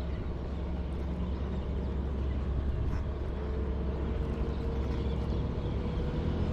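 Road traffic heard from a moving e-bike: a steady low rumble of vehicle engines and tyres, with a faint steady whine coming in about halfway through.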